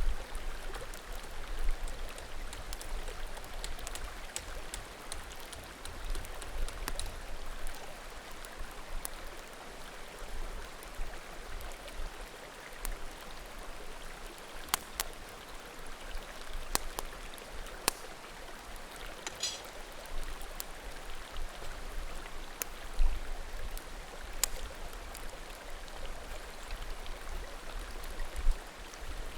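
Small mountain creek flowing with a steady murmur, with scattered sharp pops and crackles of firewood burning in a bonfire.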